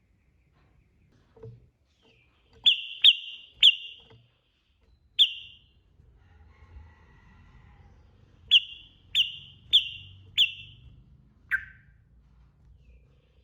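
Yellow-vented bulbul (trucukan) calling with sharp, short whistled notes: a quick run of three, a single note, then four evenly spaced notes about half a second apart, and one lower note near the end. A faint warble can be heard between the groups.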